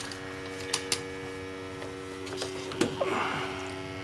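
Steady electrical hum, with a few light clicks and a brief rustle from the combustion analyzer's probe and hose being worked into the boiler flue.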